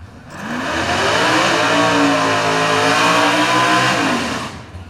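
Drag race car making a pass at full throttle: the engine rises in pitch at launch, runs loud for about four seconds, then fades away.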